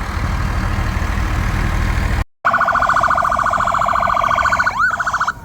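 Low, steady rumble of a heavy engine, then, after a brief cut, a loud electronic emergency-vehicle siren with a rapid warble and a rising sweep near the end.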